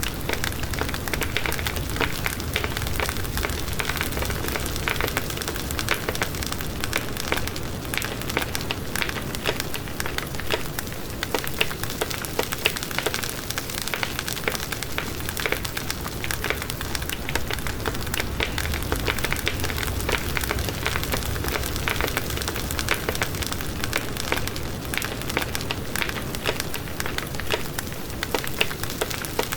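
Wood fire burning in a fireplace: a steady hiss with dense, irregular crackling and small pops throughout.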